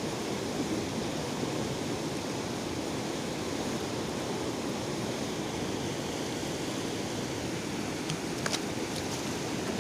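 Kali Gandaki river water rushing steadily, with a few short clicks about eight seconds in.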